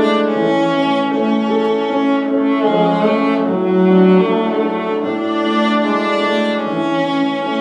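Bowed string instruments playing a slow classical passage live, in held notes that change every half-second or so, with several pitches sounding together.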